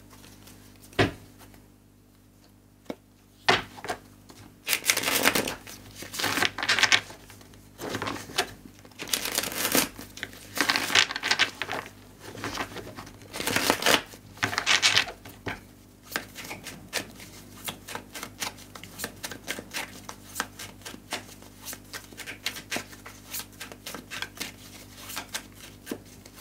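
A deck of tarot cards being shuffled by hand: several short rushes of riffling in the first half, then a long run of quick, light card clicks.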